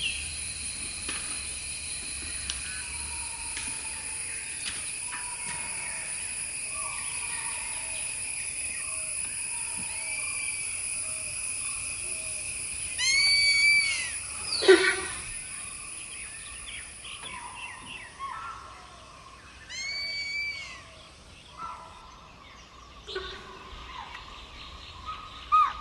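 Forest ambience: a steady, high-pitched insect chorus, with bird calls over it. The loudest are two arched calls, one about halfway through and one later, and a sharp downward-sweeping call just after the first. The insect drone fades out near the end.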